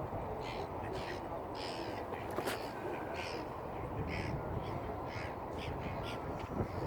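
Waterside birds calling: a run of short, separate calls, roughly two a second, over a steady low background noise. One sharp click about two and a half seconds in.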